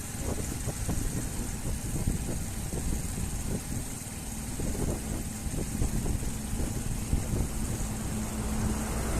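A motor vehicle engine running, a steady low rumble with irregular short knocks.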